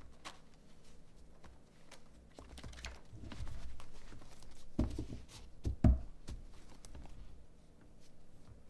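A tarot deck being handled on a table: faint rustling and small clicks of cards, with two soft thumps about five and six seconds in.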